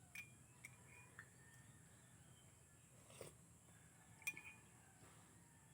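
Near silence with a few faint clinks of a spoon against a dish, the sharpest about four seconds in.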